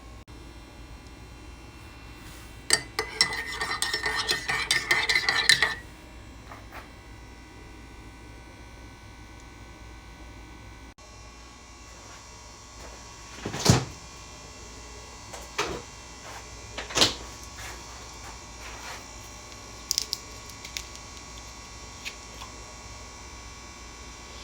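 A spoon stirring in a mug, clinking rapidly for about three seconds, followed later by a few separate knocks and clinks of dishes.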